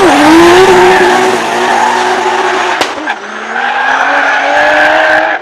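Drift car's engine revving hard and held at high revs while the tyres squeal and scrub through a slide. A sharp crack about three seconds in, then the engine note climbs slowly again.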